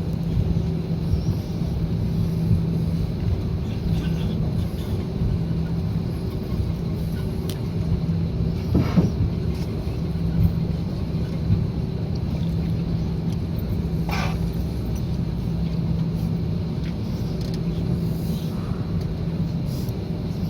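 Steady low rumble inside an Airbus A340 cabin, with a hum that fades in and out and a few brief clicks and knocks.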